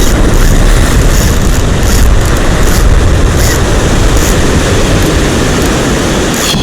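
Loud, steady rushing noise with a heavy low rumble, the sound of wind buffeting the microphone and breaking surf on the shore.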